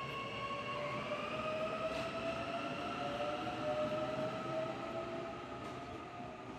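A train running, with a steady whine of several tones that edges up in pitch about a second in and fades near the end.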